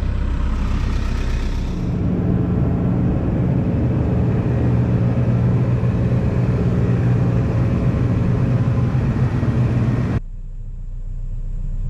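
Heavy diesel engine running steadily with a low, even drone. About ten seconds in, the sound drops suddenly to a quieter engine hum.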